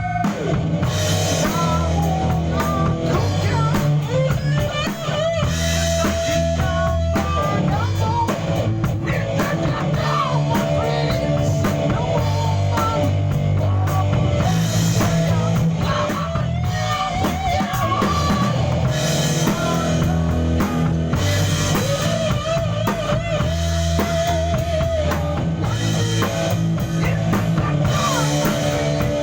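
A live band playing a rock song: drum kit, bass and guitar, with a lead melody that wavers in pitch.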